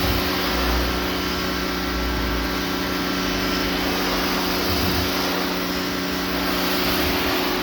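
Pressure washer running steadily: a constant motor hum under an even hiss of spraying water during a car rinse.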